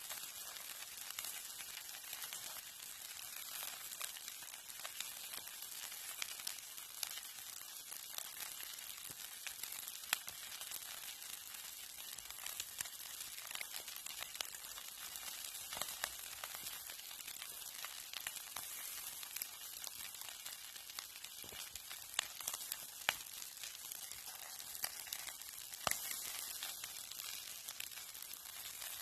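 Food sizzling steadily in a frying pan over a campfire, with scattered sharp pops and crackles.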